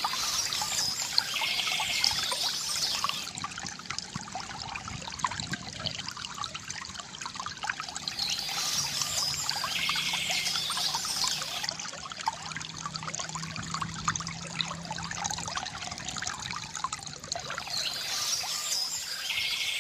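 Water trickling and gurgling steadily from a bamboo fountain, with birds chirping in three short spells about nine seconds apart.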